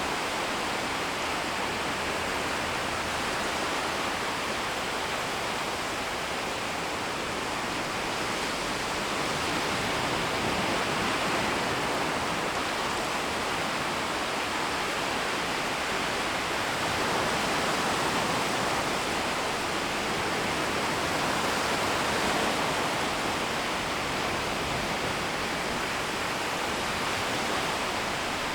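Shallow waves washing in and out along a shoreline: a steady hiss of moving water that swells gently a few times.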